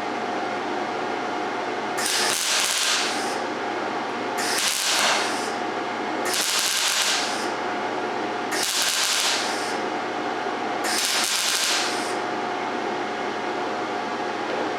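MIG welder arc crackling in five short bursts of about a second each, roughly two seconds apart: short practice welds at about 19 volts and 105 wire speed. Between the bursts the welder's cooling fan hums steadily.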